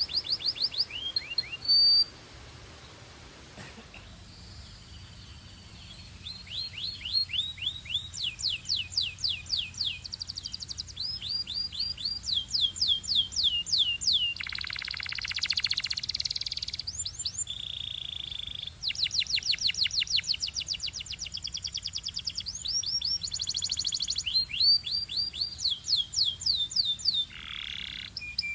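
Belgian canary singing: quick runs of the same falling whistled note repeated many times, with a short pause after the first couple of seconds. A little past halfway it sings a dense buzzing roll, followed by a short steady whistle, then goes back to the fast repeated notes.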